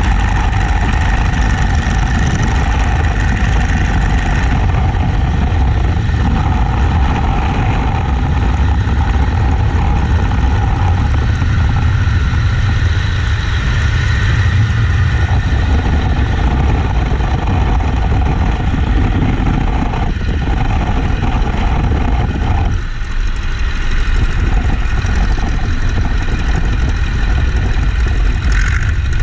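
Boeing-Stearman Model 75 biplane's radial engine running steadily, its note shifting and dropping about 23 seconds in as the power changes.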